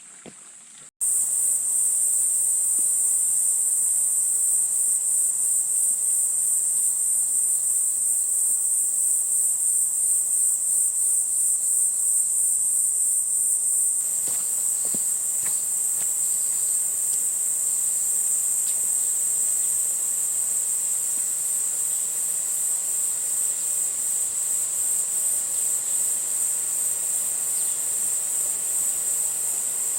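A loud, high-pitched insect chorus, a steady shrill buzz with a fine pulsing, cutting in suddenly about a second in.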